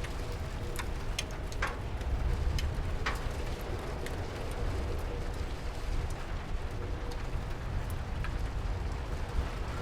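Rain falling, with scattered single drops and drips ticking sharply over a steady low rumble.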